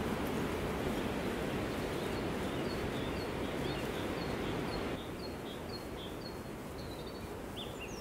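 A steady rushing noise bed that drops in level about five seconds in, with a small bird chirping over it in an even series of short, high notes, about two or three a second, from about a third of the way in; louder, lower chirps join near the end.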